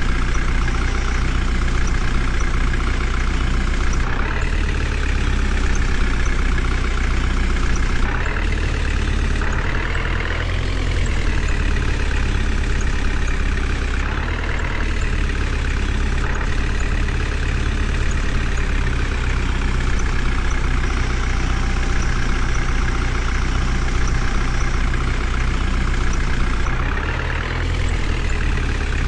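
Heavy diesel engine of a tractor or backhoe loader running steadily, its pitch rising and falling a few times as the throttle changes.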